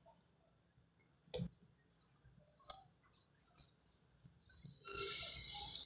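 Faint eating sounds of a bread roll with fried egg being bitten and chewed: a sharp click about a second and a half in, a few soft smacks and clicks, and a hiss about a second long near the end.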